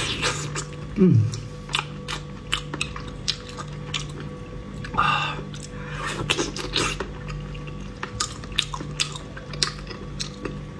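Close-miked chewing and wet mouth clicks of a person eating, with a short falling "mm"-like hum about a second in.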